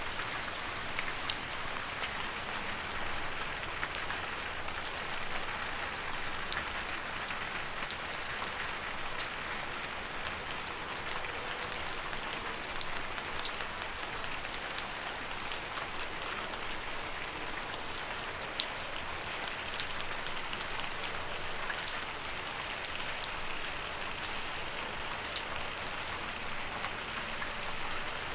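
Steady rain falling, a continuous patter with many individual drops ticking sharply on a surface.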